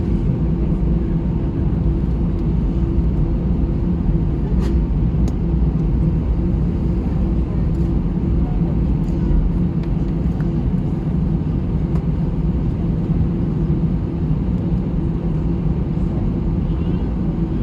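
Steady cabin noise inside an Airbus A320 taxiing after landing: a low rumble from the engines at idle, with a steady hum through it.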